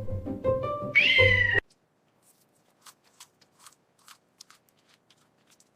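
Background music, then a single cat meow about a second in, falling in pitch; both cut off abruptly, leaving only faint scattered ticks.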